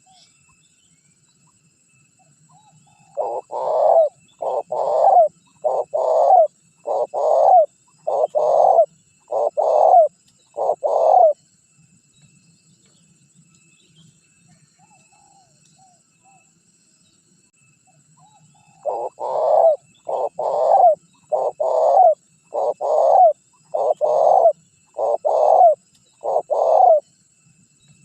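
Spotted dove (tekukur) cooing: two bouts of about seven coos each, evenly spaced, with a pause of several seconds between the bouts.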